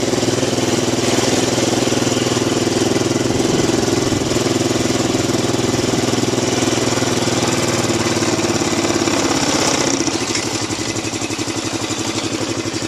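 Polaris Sportsman 500 ATV engine running steadily, easing off about ten seconds in.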